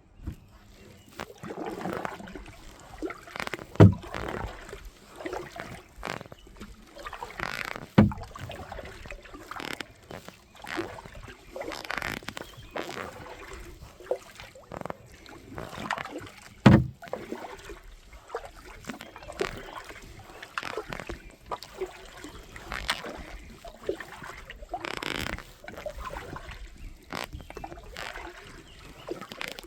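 Kayak paddle strokes, a splashing swish in the water every four to five seconds, with three sharp knocks in between.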